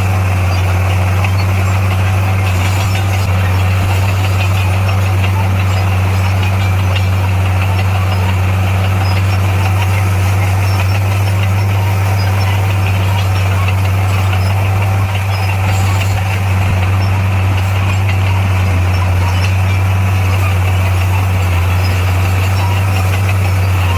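Heavy diesel engine of earthmoving equipment running steadily: a constant low drone at an even pitch, with no revving.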